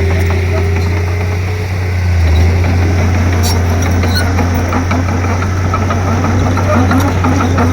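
Komatsu D31P bulldozer's diesel engine running steadily with a deep drone. The level dips briefly about two seconds in, then picks up again, with scattered light clicks throughout.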